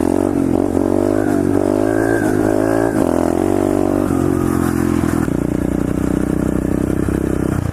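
SSR 125cc pit bike's single-cylinder four-stroke engine revving hard under acceleration for a wheelie attempt. Its pitch climbs and drops back several times over the first three seconds, then holds steady from about five seconds in.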